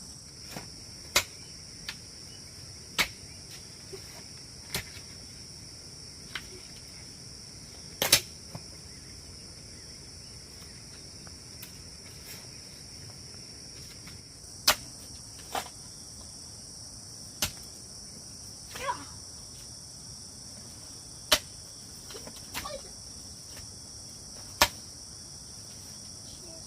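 Steady high-pitched insect chorus of crickets, with sharp knocks every second or few, about fourteen in all, pausing for several seconds near the middle.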